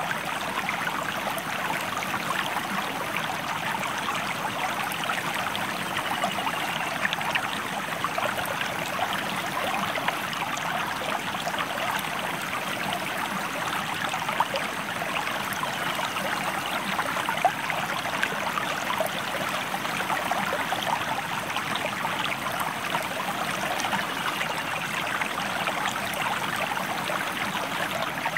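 A river or stream flowing steadily: an even rush of water with a dense patter of small splashes.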